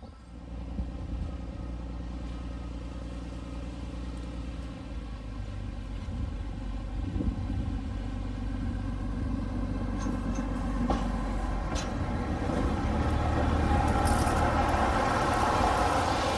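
A heavy engine running steadily with a low rumble, growing louder over the last few seconds as it draws closer.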